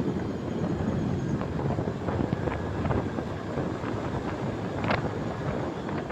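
Wind rushing over the microphone of a moving motorcycle, with road and traffic noise beneath it and a few short sharper sounds, the clearest about five seconds in.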